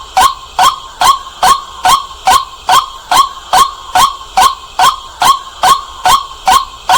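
White-breasted waterhen calling loudly, one sharp note repeated about twice a second in an even, unbroken series.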